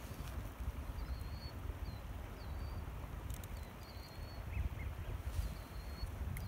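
Quiet outdoor ambience: a steady low rumble, with a small bird chirping high and briefly about half a dozen times, and a few soft clicks from handling a spool of monofilament fishing line.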